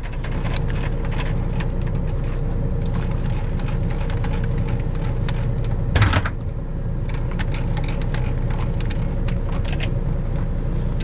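A car driving, with a steady low rumble of engine and road noise and a faint steady tone. There are small ticks and rattles throughout, and one louder knock about six seconds in.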